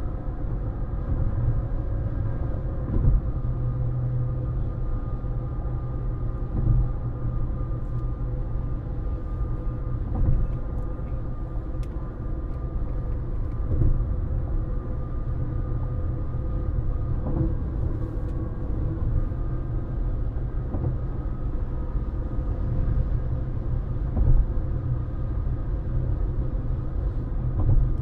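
Road noise of a car driving at speed, heard from inside the cabin: a steady low rumble of tyres and engine with a faint constant hum, and now and then a brief thump.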